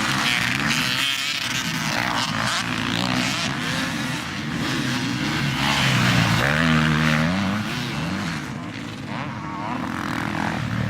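Several motocross bikes racing, their engines revving up and down and overlapping. One bike sounds clearer near the middle, its pitch rising and then falling away.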